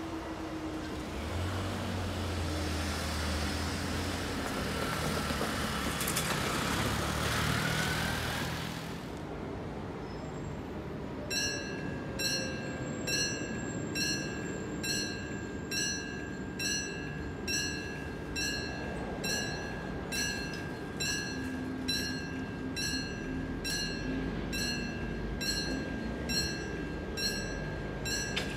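Electric train running on the line, a rumble with a whine that rises near the end. Then the level crossing's mechanical warning bell rings steadily, pulsing about once a second, as the crossing closes.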